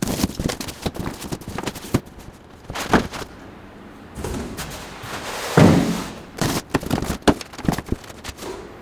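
Hands handling parts and packaging: a quick run of clicks and knocks, a rustling scrape about halfway, then more knocks.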